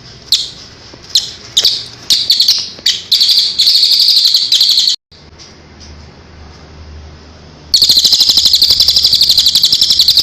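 Recorded songbird calls: a few sharp, high chirps that quicken into a rapid trill, which cuts off abruptly about five seconds in; near the end a second loud trill of fast repeated notes, about ten a second.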